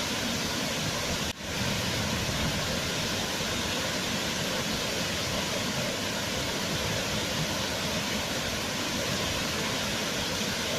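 Waterfall, a steady rush of falling water. It briefly drops out about a second in and swells back within half a second.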